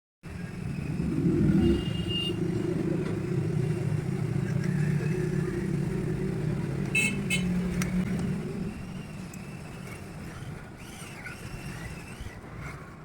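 A low motor hum that builds up, runs steadily and fades out about eight to nine seconds in, with a few sharp clicks partway through.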